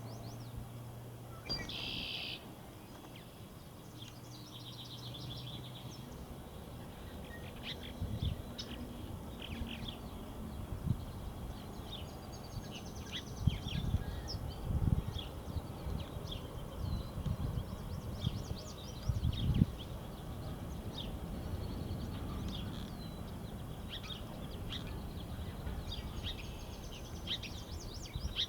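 Songbirds chirping: many short high chirps throughout, with a brief, louder buzzy call near the start. A few low thumps come in the middle.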